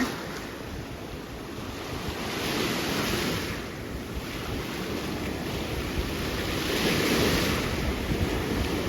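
Surf breaking on the shore, with wind buffeting the microphone. The waves swell twice, about two and a half seconds in and again around seven seconds.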